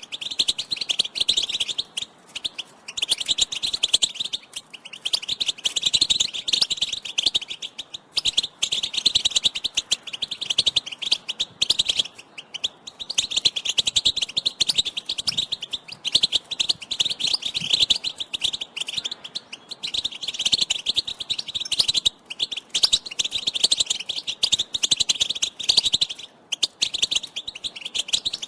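European goldfinch giving rapid, twittering chatter calls in runs of a few seconds with brief pauses between them.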